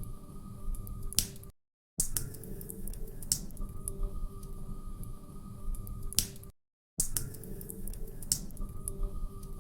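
Log fire crackling, with sharp pops and snaps over a low rumble. It is a short recording looped, cutting out briefly to silence twice.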